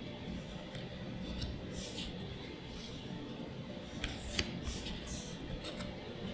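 Crisp crinkles and sharp snaps of Magic: The Gathering booster pack foil wrappers and cards being handled, a scattered run of short ticks and rustles, the sharpest about four and a half seconds in.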